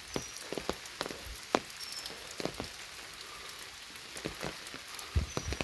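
Steady rain falling, with heavier drops striking nearby surfaces in irregular sharp ticks.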